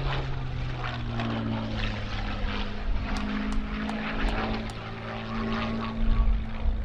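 Supermarine Spitfire's V12 piston engine running during a low aerobatic pass, the victory roll. The note drops in the first second and then holds steady. A few sharp clicks come in the middle and low rumbling wind gusts near the end.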